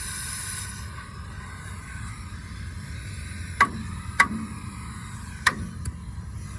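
Hammer striking metal during a truck axle repair: four sharp blows in the second half, the first three loud and the last lighter, over a steady background hum.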